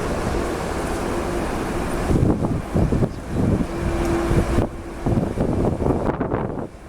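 Strong gusting wind buffeting the microphone in uneven rumbling surges, with a faint steady hum coming and going underneath.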